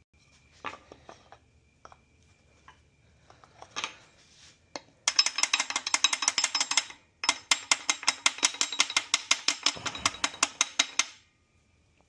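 Ratchet wrench clicking rapidly and evenly, about ten clicks a second, in two runs with a short break between, as a bolt is worked. A few faint metallic ticks come before it.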